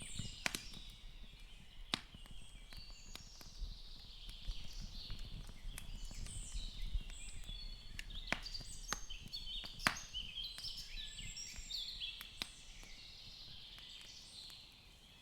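Faint nature ambience: birds chirping continuously, with scattered sharp crackles and pops of a wood fire.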